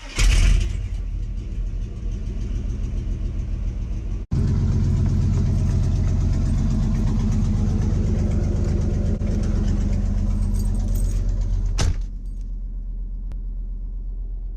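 1999 Chevy K2500's 7.4-litre 454 Vortec big-block V8, straight-piped with stock manifolds and no cats or mufflers, firing up with a loud burst and settling into a loud, lumpy idle. After a brief dropout a little over four seconds in the idle is louder, and it drops back quieter near the end.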